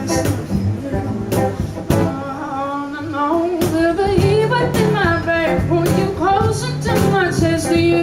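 Live acoustic band playing: a singer carrying the melody over strummed acoustic guitar, with cajon hits keeping the beat. The vocal line comes in about two seconds in.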